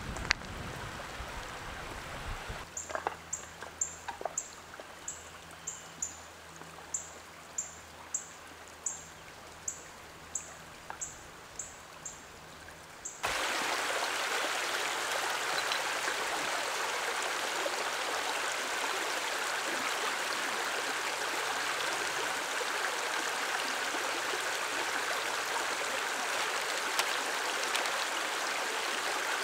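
A bird repeats short, very high chirps, about two a second, over a quiet background. About 13 seconds in there is a sudden cut to the steady rushing of a stream or waterfall, which is the loudest part.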